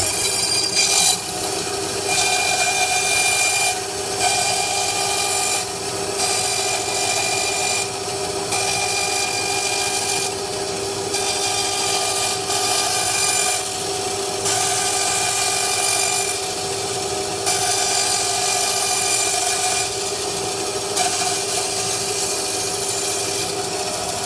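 Bandsaw running and cutting round a wooden disc as the blank is turned on a circle-jig pivot. A steady motor and blade hum runs under the cutting noise, which swells and eases in stretches of a second or two.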